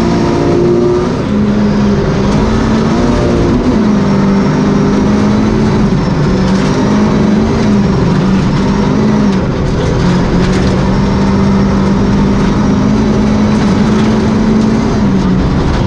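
Volvo 240 Group H rally car's engine running hard at high revs, heard from inside the cabin at speed on gravel. It shifts up from third to fourth within the first few seconds, and the engine note dips and recovers several times.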